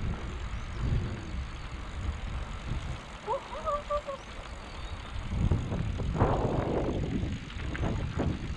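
Wind buffeting the microphone and tyre rumble from riding a bicycle along a path, with gusts coming and going and a stronger stretch of rumble about five seconds in. A brief squeak rises and holds about three seconds in.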